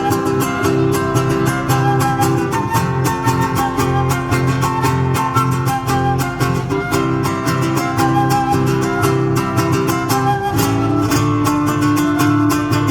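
Folk music with acoustic guitars strummed in a quick, steady rhythm and a melody line above them.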